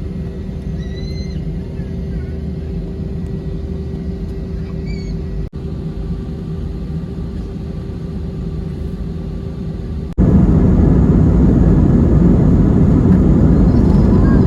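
Airbus A320 cabin noise: a steady low rumble with a steady hum, which breaks off briefly about five seconds in. About ten seconds in it gives way to a much louder, heavier rumble.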